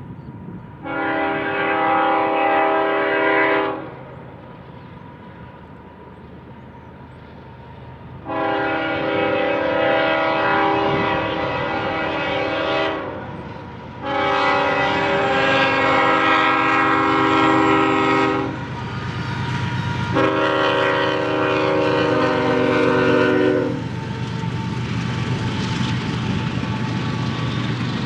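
Diesel locomotive's multi-chime air horn sounding four long blasts, over the steady rumble of a passing train.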